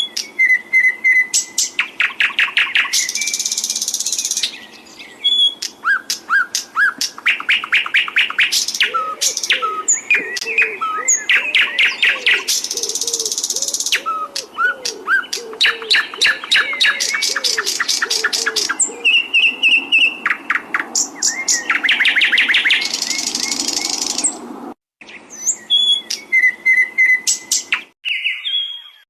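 A songbird singing continuously: fast trills of repeated notes and short whistles, broken three times by a buzzy rolling trill lasting a second or two. This is masteran song, played to teach cage birds.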